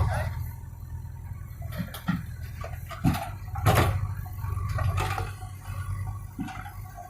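Heavy diesel machinery running steadily, with several knocks and clanks and bursts of rushing noise, the loudest about three and a half to four seconds in.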